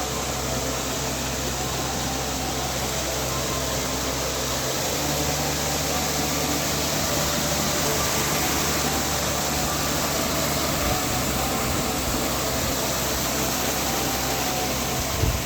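A mountain stream rushing steadily, an even hiss of flowing water.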